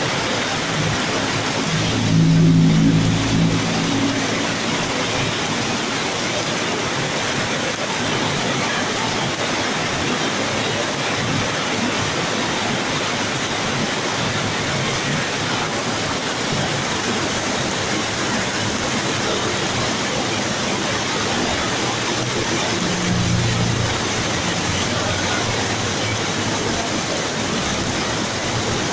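Heavy rain pouring down, a steady dense hiss. A brief low rumble rises out of it twice, about two seconds in and again about twenty-three seconds in.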